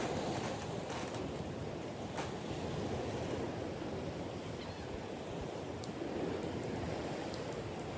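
Steady wash of waves with wind noise on the microphone, and a faint click about two seconds in.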